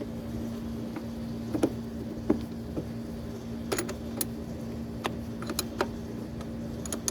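Scattered metallic clicks and knocks of hand tools on the starter and its wiring during a solenoid replacement, over a steady hum.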